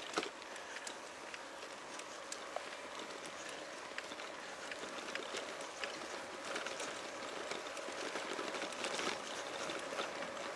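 Light rain falling, with scattered drops ticking sharply close to the microphone over a steady hiss, growing a little heavier toward the end.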